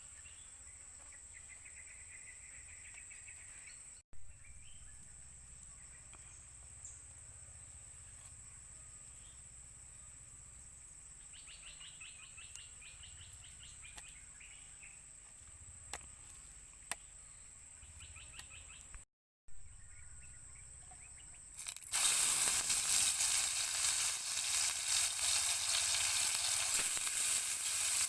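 Quiet outdoor ambience with scattered bird or insect chirps, then, about three-quarters of the way in, loud steady sizzling starts suddenly as beef steak frying in a hot pan and carries on.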